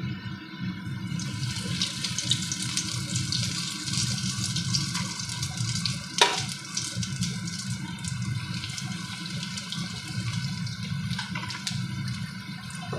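Breadcrumb-coated chicken pieces sizzling and crackling in hot mustard oil as they are dropped in to deep-fry, the sizzle starting about a second in. A single sharp knock about six seconds in.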